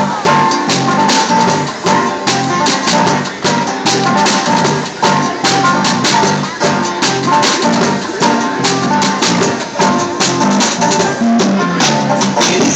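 Live band playing an instrumental passage, with pitched notes over a steady run of sharp percussive strikes.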